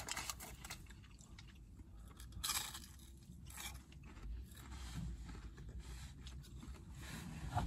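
Faint chewing and crunching of breaded fast-food chicken nuggets, with a slightly louder crunch about two and a half seconds in.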